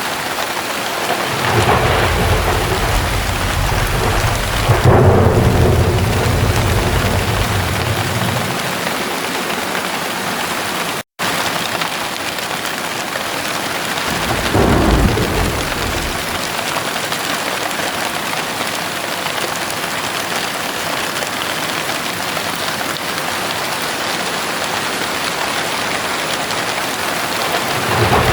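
Heavy rain falling steadily, with thunder rumbling over it. A long roll of thunder begins about two seconds in and is loudest around five seconds. A shorter one comes about halfway through, and another starts right at the end. The sound cuts out for a split second near the middle.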